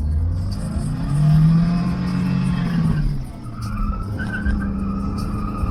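Car being driven hard on a slalom run: the engine revs up about a second in, holds, then drops off, and the tyres squeal as it turns in the second half.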